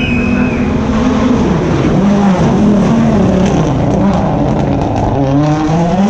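Rally car engine revving and easing off as it drives the stage, its pitch rising and falling several times, dipping about five seconds in and then climbing again.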